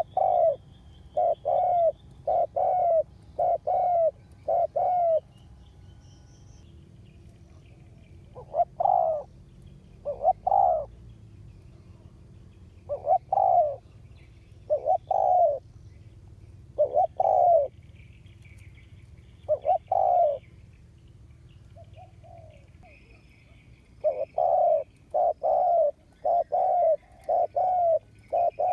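Spotted dove (cu gáy) cooing over and over, the song of a decoy bird used to lure wild doves. The coos come in a quick run of about six at the start, then singly every second or two, then another quick run near the end. Faint chirps of small birds sound higher up.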